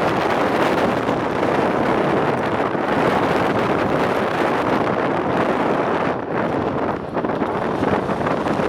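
Strong mountain wind buffeting the microphone in a steady, loud rush.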